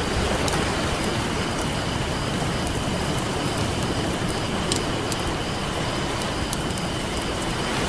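Campfire crackling with scattered small pops, one sharper pop a little past the middle, over a steady wash of ocean surf.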